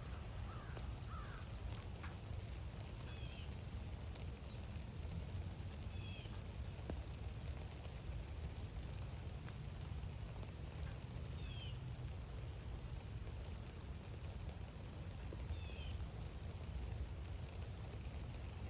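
A bird giving short, high, hooked calls every few seconds, five in all, over a steady low rumble.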